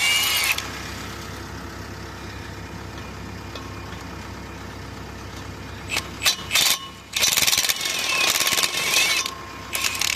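Milwaukee power tool, most likely an impact wrench, run in bursts: briefly at the start, a few quick taps about six seconds in, then a longer run for about two seconds and a short one near the end. A steady low hum runs underneath.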